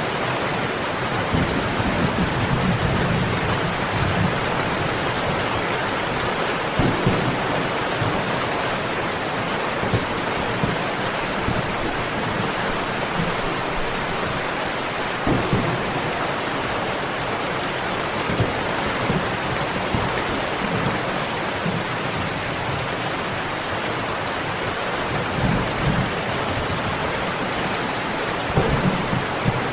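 Steady heavy rain, with low rumbles of thunder swelling now and then and a few short pops from a crackling fireplace.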